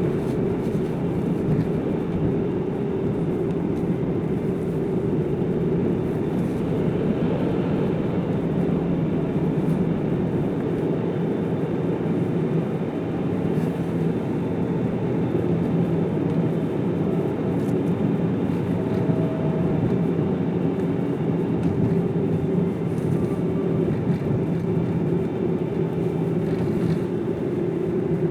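A car driving steadily along a road: a constant drone of engine and tyre noise with no change in pace.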